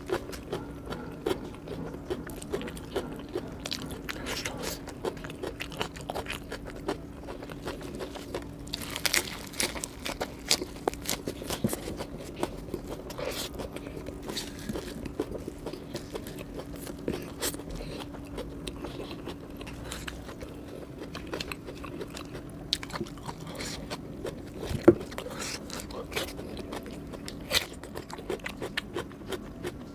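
Close-miked eating: a person chewing and crunching fried chicken lollipop and raw salad such as cucumber, with frequent crisp crunches and wet mouth sounds. A faint steady hum runs underneath, and one louder crack comes near the end.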